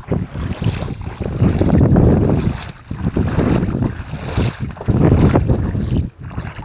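Strong gusting wind buffering the microphone in loud, uneven surges, with brief lulls about three and six seconds in.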